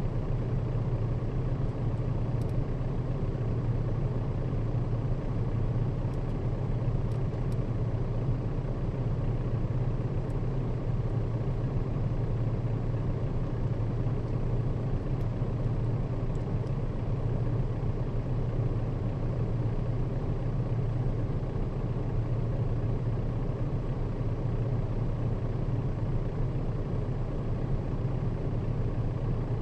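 Nissan Diesel KL-RA552RBN route bus's diesel engine idling steadily while the bus stands still, heard from inside the cabin as a low, even hum.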